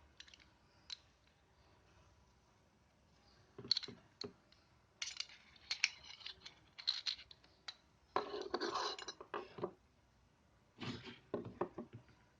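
Parts of a WE Glock 18C Gen 4 gas blowback airsoft pistol being handled during stripping or reassembly. Scattered clicks, clinks and scrapes come in several clusters, with a longer stretch of scraping about eight seconds in.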